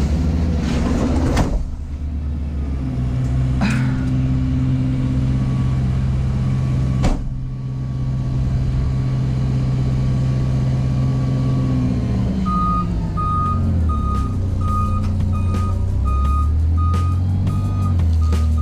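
A heavy vehicle's engine runs with a steady low drone, with a few sharp metal clanks in the first half. About twelve seconds in, the engine note drops and a reversing beeper starts, beeping about one and a half times a second as the machine backs up.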